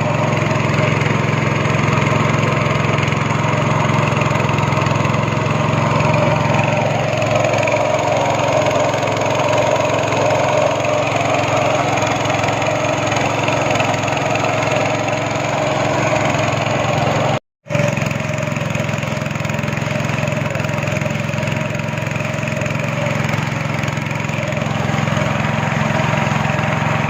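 Speedboat engine running steadily under way, a continuous loud drone with rushing water and wind noise over it. The sound drops out completely for a split second about two-thirds of the way through.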